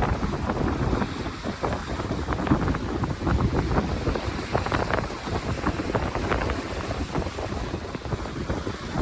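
Wind buffeting the microphone on a boat under way: a loud, rough, steady rush with many small irregular gusts.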